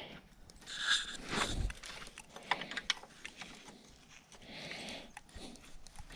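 Hand tools working on the quad bike's brake-cable nuts: scattered metallic clicks and scrapes of a spanner on the nuts. Two breathy hisses come through, about a second in and again near five seconds.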